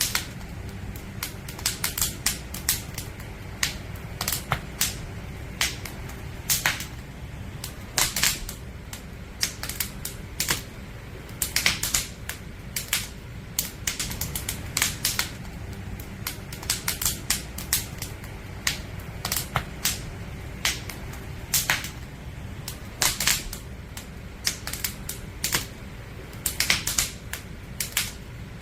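Burning firewood crackling and popping in irregular sharp snaps, some louder pops standing out, over a low steady rumble of the fire.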